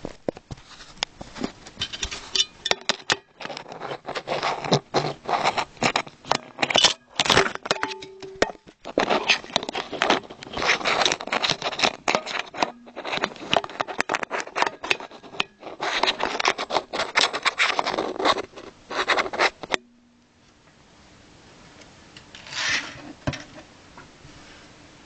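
Loose plastic LEGO pieces rattling, scraping and clicking as they are handled, in dense clusters of clicks for about twenty seconds. It then goes much quieter, with one short rustle near the end.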